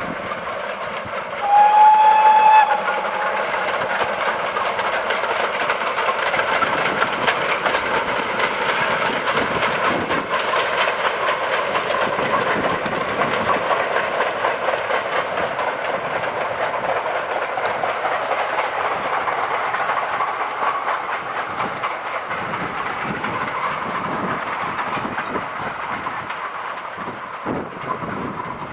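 A steam locomotive's whistle gives one short, clear note about two seconds in. The train then runs past with a steady mix of steam and rail noise, the wheels clicking over the rail joints, and the sound fades away near the end.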